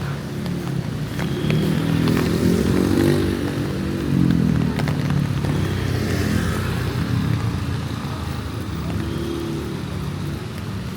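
Motor vehicles passing close by on a wet city street. Their engine hum swells and fades as they go past, loudest a few seconds in and again around the middle.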